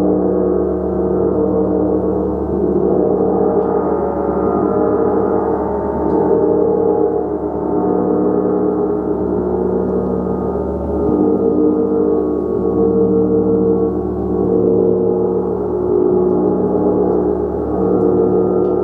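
A gong played continuously: a dense wash of many overlapping sustained tones that swells and eases every couple of seconds.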